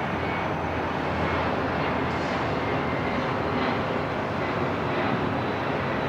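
Airport ambience: a steady, even wash of noise with faint thin high whines running through it.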